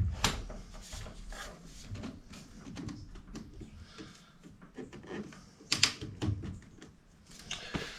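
Hands working PVC drain pipe and fittings: irregular clicks, knocks and rustles, with the sharpest knock about six seconds in.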